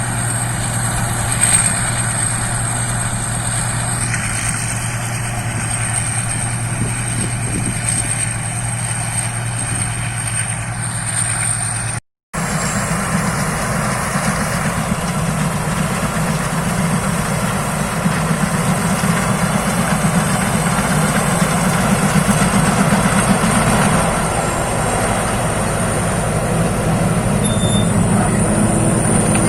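Rice combine harvester running steadily at work, with a steady hum and a constant mechanical din. The sound cuts out for a moment about twelve seconds in, then carries on with a heavier low rumble.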